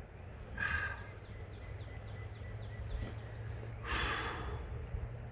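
A man breathing out hard twice, short forceful exhales about a second in and again about four seconds in, over a steady low rumble.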